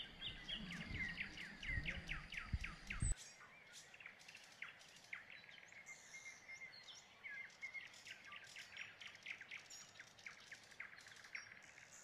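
Birds chirping faintly: a busy run of short, quick chirps, each sliding down in pitch, several a second. A low rumble lies under the first three seconds and cuts off abruptly.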